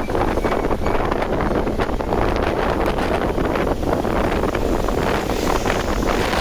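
Wind buffeting the microphone on a moving motorcycle: a steady rush of noise with rapid flutter, over the motorcycle and road noise beneath it.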